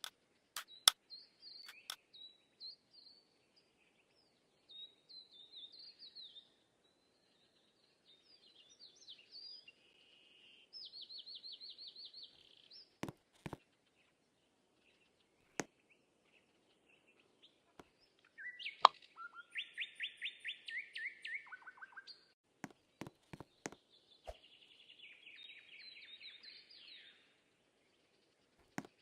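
Small birds singing in short chirping phrases and fast trills, with pauses between songs. A few sharp clicks are heard now and then.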